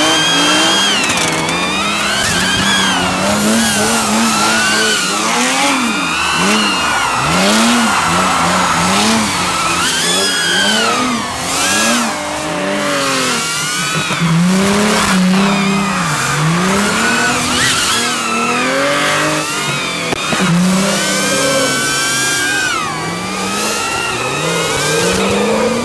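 Drift cars' engines revving up and down over and over, with tyre squeal as they slide.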